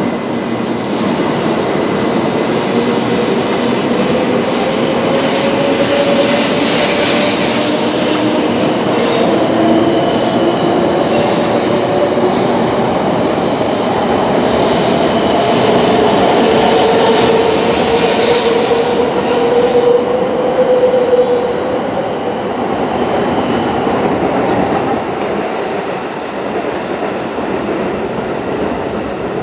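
700 Series Shinkansen pulling out and picking up speed past the platform: the whine of its electric traction motors rises in pitch over the rush and rumble of the passing cars. The sound fades as the last car leaves, near the end.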